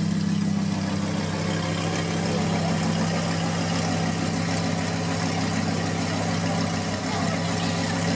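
Lamborghini Huracán LP610-4's 5.2-litre V10 idling steadily through an aftermarket Fi valved exhaust, with a deep, even burble that holds at the same pitch.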